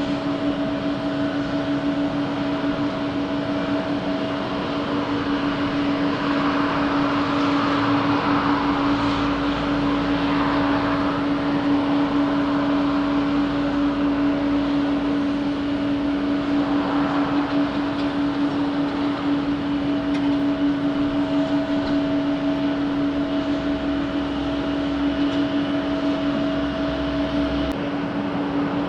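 Jet airliner engines running at a steady low power: a constant droning hum with a steady whine over a rushing noise. The rush swells twice, around a quarter of the way in and again just past the middle.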